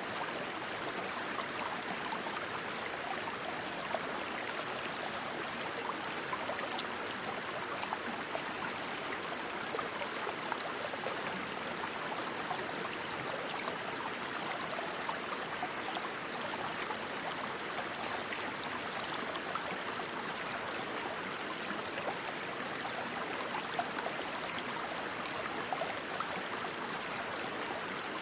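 Rushing stream water flowing in a steady, even wash. Short high-pitched chirps recur over it, with a quick trill about 18 seconds in.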